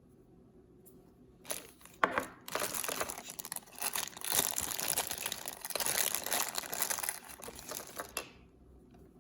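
Blind-bag toy packaging being crinkled and torn open, starting about a second and a half in with a sharp crackle near two seconds, and going on as a continuous crackling until about eight seconds in.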